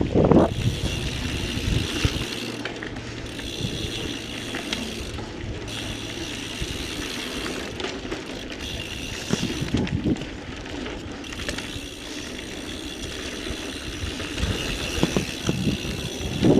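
Full-suspension mountain bike ridden on a dirt trail: tyres rumbling, the chain and frame rattling over bumps, and the DT Swiss rear hub's freewheel buzzing now and then while coasting.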